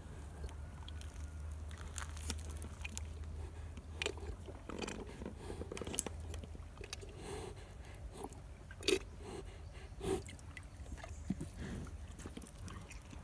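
Cows chewing and crunching breadfruit, with irregular wet crunches and bites.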